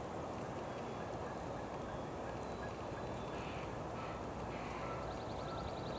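Steady faint outdoor background hiss with a few faint distant bird calls. A quick run of faint high ticks comes near the end.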